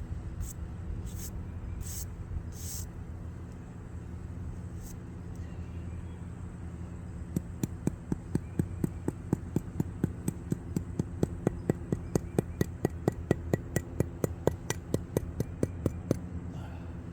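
Quick, even tapping with a tool, about five light knocks a second, settling wet concrete down into the cracks of a brick repair. The tapping starts about seven seconds in and stops shortly before the end, over a steady low hum, with a few scattered clicks before it.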